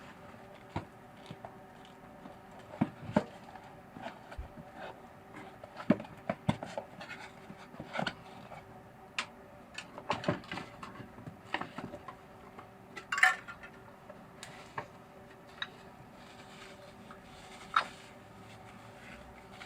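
Irregular clicks, taps and metallic clinks of hand tools and small metal parts being handled during engine carburetor work, one louder clatter about two thirds of the way through, over a faint steady hum.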